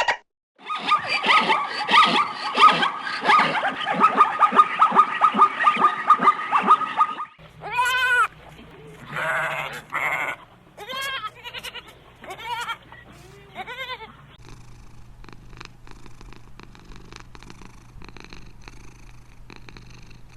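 Animal calls in a few short stretches: a fast run of chattering calls, then several separate rising-and-falling cries, then only faint clicks.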